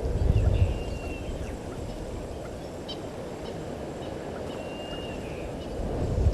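Outdoor bush ambience at a waterhole: a bird gives two short, level whistles about four seconds apart over a steady low rush, with low rumbles near the start and again near the end.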